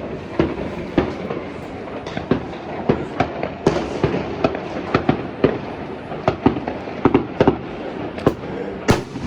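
Fireworks and firecrackers going off all around at the New Year's Eve midnight peak: dozens of sharp bangs at irregular intervals over a continuous crackle and rumble of distant explosions, with one of the loudest bangs near the end.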